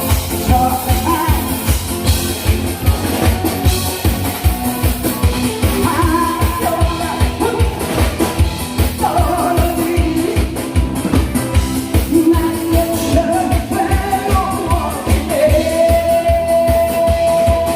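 A man singing a Korean song into a microphone over an accompaniment with a steady drum beat, holding a long note near the end.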